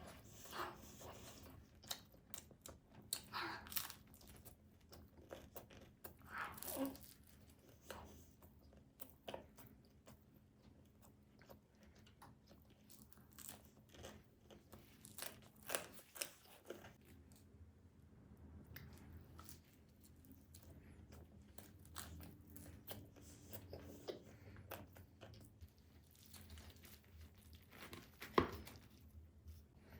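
Close-miked eating of tomato pizza: irregular bites, crunches and chewing clicks, with a few louder bites scattered through.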